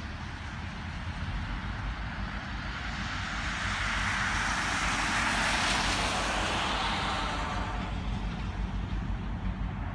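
A vehicle passes by: a rush of noise swells to its loudest about five to six seconds in, then fades, over a steady low rumble.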